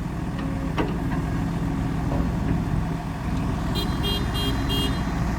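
A heavy diesel engine running steadily, with one sharp click about a second in and four quick, high-pitched electronic beeps near the end.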